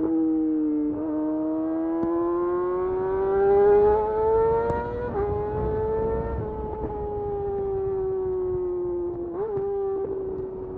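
Yamaha YZF R6 inline-four engine through a de-catted Akrapovic slip-on exhaust, heard on board while riding. The engine pitch climbs steadily under acceleration and drops sharply at an upshift about five seconds in. It then sinks slowly as the throttle eases off, with a short quick blip near the end.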